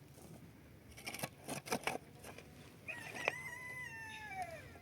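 A rooster crows once, a long call that holds its pitch and then drops away at the end. Before it come a few short knocks or rustles.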